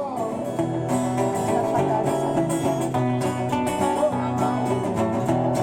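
Acoustic guitar and other plucked strings playing a folk song's instrumental passage live, without singing.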